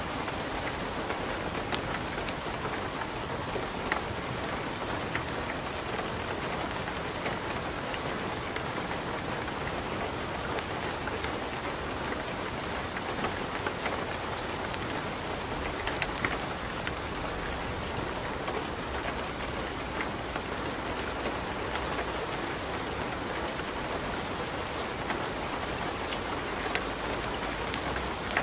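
Wood fire crackling in a fireplace: a steady hiss with frequent sharp pops and snaps, a few louder ones scattered through.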